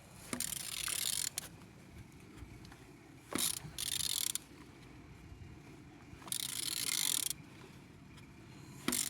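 Engine being turned over by hand, with a ratchet wrench on the crankshaft: several bursts of ratcheting and mechanical turning noise, each about a second long, with short squeaks. The engine turns freely.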